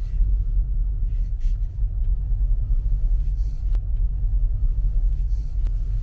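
A car driving, heard as a steady low road and engine rumble, with two faint clicks in the second half.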